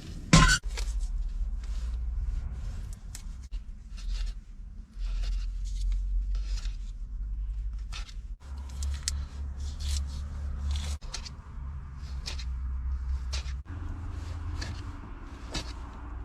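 Wind buffeting the microphone as a low, uneven rumble, with irregular small clicks and scrapes of hands handling food and containers, and one sharp knock about a third of a second in.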